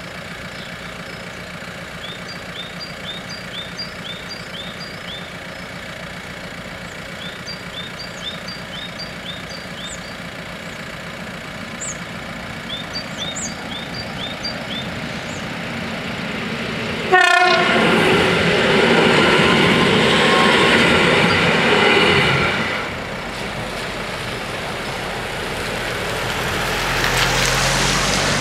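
Faint repeated high chirps over a low background, then about 17 seconds in a train arrives with a sudden loud start that includes a short horn blast. It rushes through the level crossing for about five seconds, and the noise drops off as it moves away.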